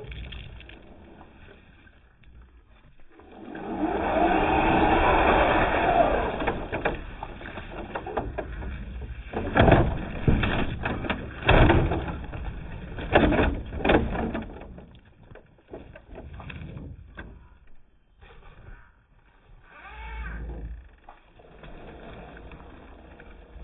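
Radio-controlled rock crawler truck working over rough ground, its small electric motor and drivetrain running under load in a sustained burst, then a run of sharp irregular knocks and scrapes as the tyres and chassis bump over rock.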